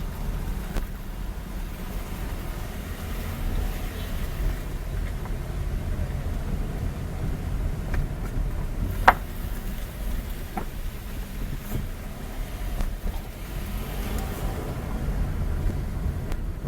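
Steady low rumble of a vehicle on the move. One sharp click about nine seconds in.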